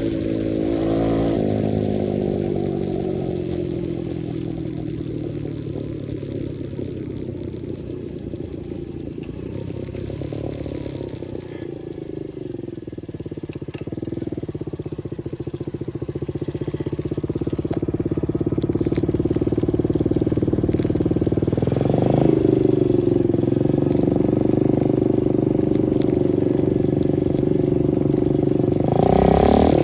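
125cc dirt bike engine running while riding, its revs falling over the first couple of seconds as it slows, then holding and building up, with a quick rise in revs about two-thirds of the way through and again near the end.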